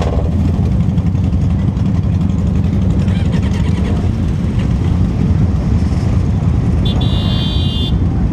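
Motorcycle engine and road noise while riding, a steady low rumble. A high tone sounds for about a second near the end.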